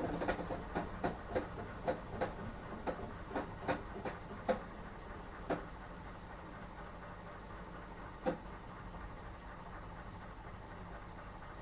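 Washing machine running on a strong cycle: a steady low hum, with a run of irregular knocks from the turning drum through the first half and one more a little later.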